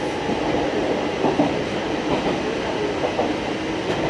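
Fukui Railway Fukubu Line train running at speed, heard from inside the car: a steady rumble of running noise with irregular clicks of the wheels over rail joints and a faint steady tone.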